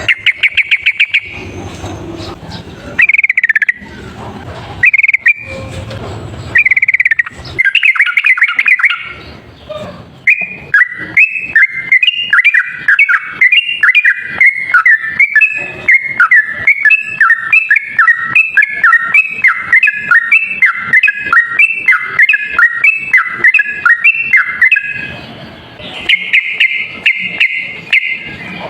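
Yellow-vented bulbul (trucuk) singing: short bubbly chirping phrases, then a long, fast run of alternating high and low notes lasting about fifteen seconds, the continuous 'ropel' song used as a trapping lure, and another quick trill near the end.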